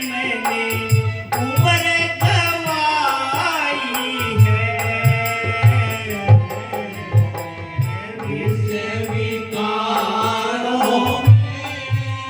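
A devotional shabad sung by a male singer, accompanied by a hand drum beating a steady rhythm and held instrumental notes underneath.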